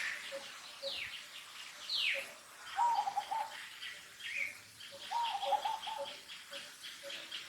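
Wild birds calling: two quick falling whistles in the first two seconds and a short warbled phrase heard twice, over a steady pip repeated about twice a second.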